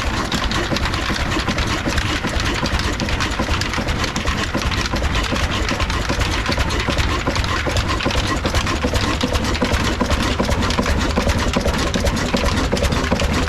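Old desi stationary diesel engine running steadily while driving an atta chakki flour mill, a continuous fast clatter of engine and mill machinery.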